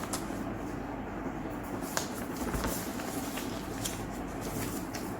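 Faint rustling and a few light clicks of paper leaflets and packaging being handled, over a steady low room hum.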